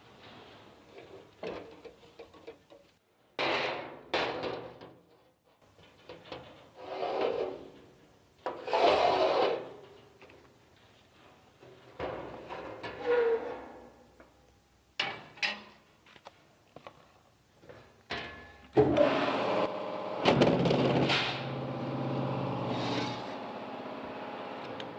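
Workshop work noises: a series of separate scraping and rubbing strokes, then a louder continuous grinding-like noise with a low steady hum through the last several seconds.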